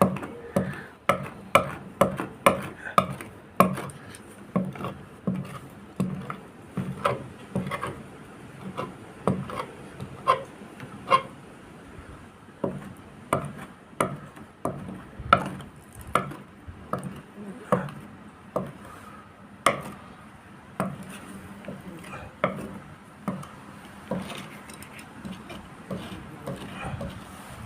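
A long run of sharp taps or knocks on a hard surface, about two a second at first, then further apart and fainter over the last third.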